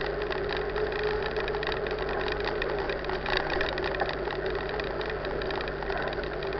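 Mountain bike rolling along: a steady hum with a dense rattle over it and a low rumble underneath.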